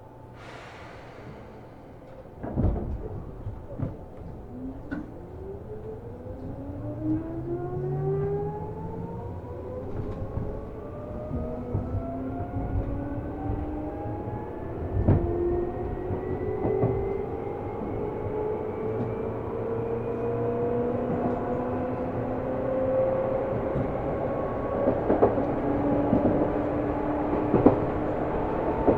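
Seibu New 2000 series electric commuter train pulling away from a station stop, heard inside the car. A short hiss of air comes first, then a thud about two and a half seconds in. From about five seconds, the traction motors and gears whine in several tones that climb steadily in pitch as the train gathers speed, with occasional knocks from the wheels.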